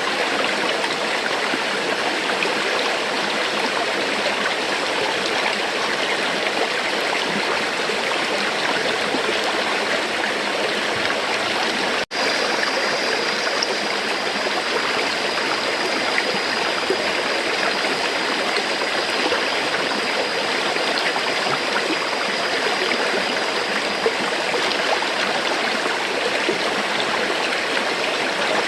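River water flowing steadily in an even rushing wash. The sound drops out for an instant about twelve seconds in.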